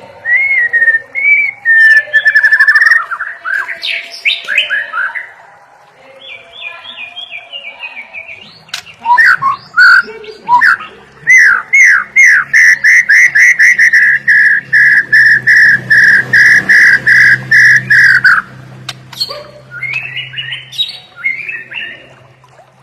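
White-rumped shama singing loudly: varied whistled phrases and quick up-and-down glides, then a long run of the same ringing note repeated about three times a second, breaking off before a few shorter phrases near the end.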